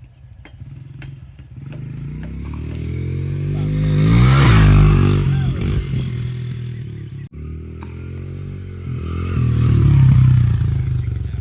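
A small dirt bike engine riding past: it grows louder to a peak about four and a half seconds in, its pitch dropping as it goes by. After a sudden break around seven seconds in, it comes by again, loudest near the end.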